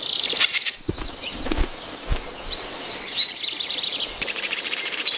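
Birds chirping with high, thin calls. A fast run of repeated chirps starts about a second before the end, with a few soft low thumps in between.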